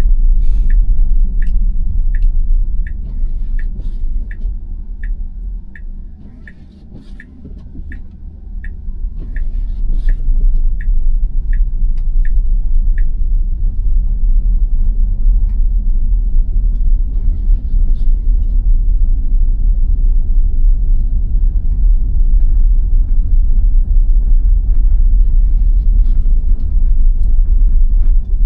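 Low rumble of tyre and road noise inside an electric Tesla Model Y cabin driving on a snow-covered road. It eases off about six to eight seconds in as the car slows for the turn, then builds again. The turn signal ticks about twice a second through the first half and stops about thirteen seconds in.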